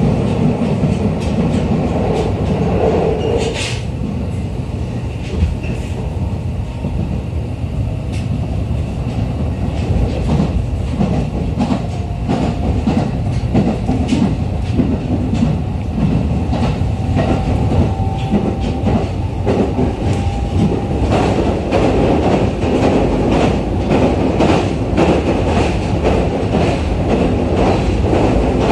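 Running noise inside the car of a JR East E501-series electric train: a steady rumble with the wheels clicking over rail joints, the clicks coming thicker and faster in the second half. A faint steady whine sounds through the middle.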